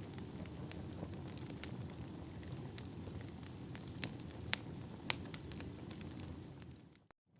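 Firewood burning: a steady low rumble of flames with scattered sharp crackles and pops, a few louder snaps about four to five seconds in. The sound cuts out briefly near the end.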